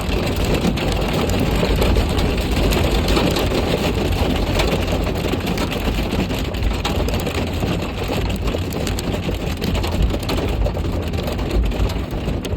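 Heavy rain mixed with ice pellets drumming on a stopped car: a dense, steady patter of small ticks over the low rumble of the idling engine.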